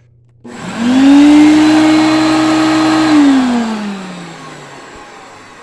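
Hoover Concept One upright vacuum cleaner switched on for a brief test run after the brush-roll plate is refitted. Its motor rises quickly to a steady whine for about two seconds, then is switched off and winds down, the pitch falling and fading out over about two seconds.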